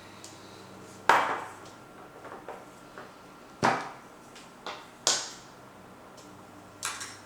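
Four loud, sharp knocks about a second and a half apart, with lighter taps between them, from kitchen work at the counter.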